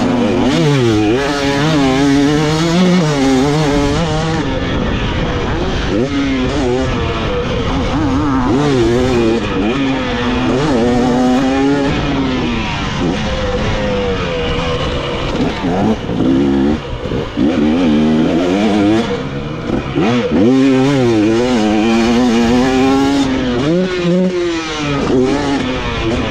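Dirt bike engine ridden hard, its pitch climbing and dropping back over and over as the rider accelerates, shifts and rolls off the throttle.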